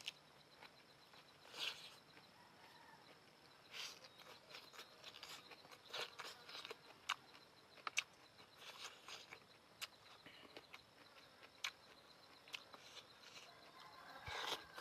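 Close-up eating sounds of noodles being eaten: soft wet mouth clicks, lip smacks and short slurps at irregular intervals, over a faint steady high whine.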